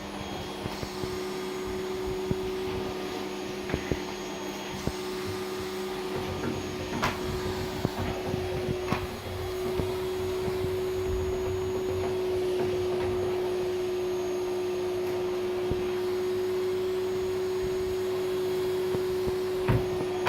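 Vacuum cleaner running steadily with a constant droning hum, getting a little louder about halfway through, with a few light knocks as it is moved over the floor.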